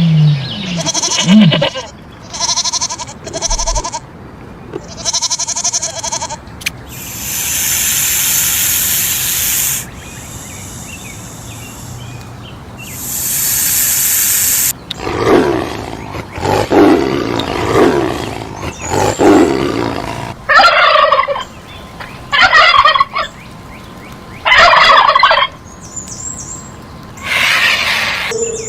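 A string of separate animal calls, several different kinds in turn with short gaps between them: pitched calls at first, then two long hiss-like stretches, then lower calls and short rasping bursts.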